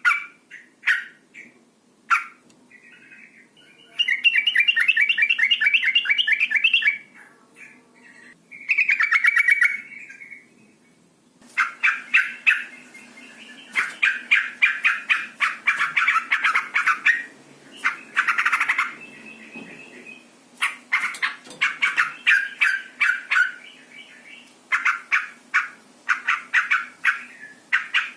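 Yellow-vented bulbul calls: bursts of fast, chattering notes broken by short sharp calls, given as a female in breeding condition calling to attract a male.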